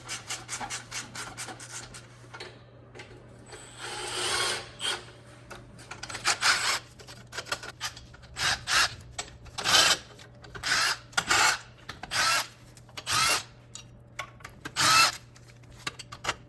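Power tool run in short bursts: a quick run of clicks over the first two seconds, then a string of brief whirring bursts about a second apart.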